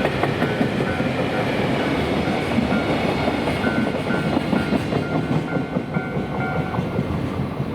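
Freight train's container wagons rolling past, wheels clacking over the rail joints in a steady rumble. A short high ding repeats about twice a second through most of it, and the train sound eases a little near the end.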